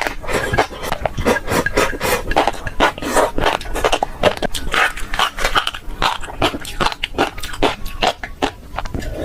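Close-miked chewing of fish roe: a dense run of wet clicks and pops as the eggs burst in the mouth.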